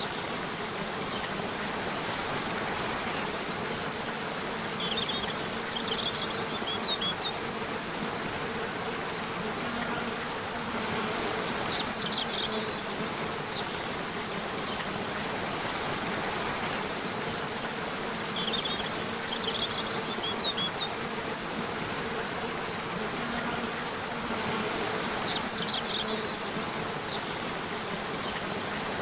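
Nature ambience: a steady buzzing of insects over an even rush like flowing water, with short clusters of high chirps recurring about every six seconds.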